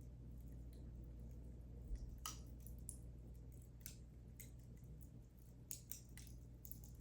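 Wood fire crackling in a fireplace: faint, irregular sharp pops and snaps over a low steady rumble, with the loudest snap about two seconds in.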